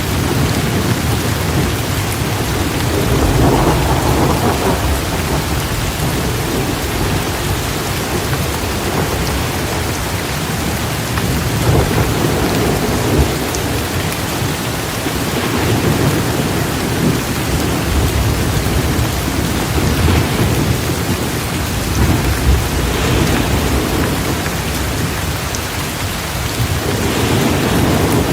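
Steady rain falling, with low rumbles of thunder that swell and fade several times.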